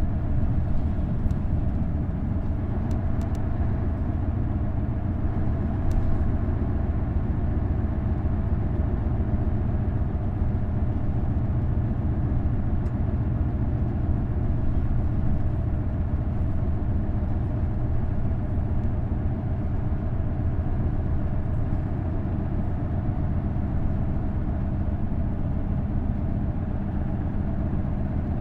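Isuzu Erga bus's V8 diesel engine running steadily on the road, with a low even drone and road noise, and a few faint clicks in the first few seconds.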